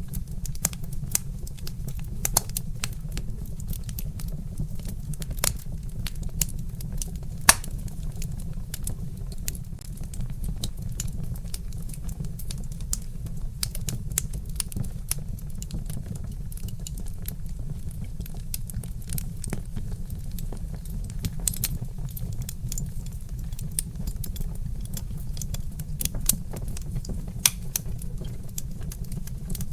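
Wood fire crackling: irregular sharp pops and snaps of burning logs over a steady low rumble, with a louder pop about seven seconds in and another near the end.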